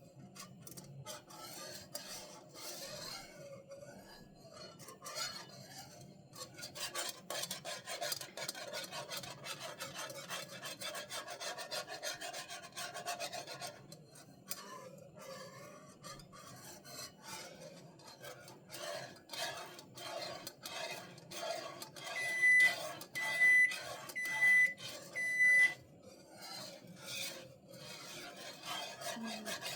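Rhythmic scraping of a utensil against a pot as gravy is stirred. Near the end a timer beeps four times, about a second apart, the signal that the biscuits are done.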